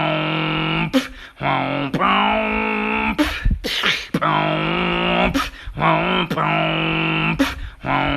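Beatboxing: long, buzzy vocal bass notes, each with a falling sweep in its tone. They are broken roughly once a second by short, sharp percussive mouth hits.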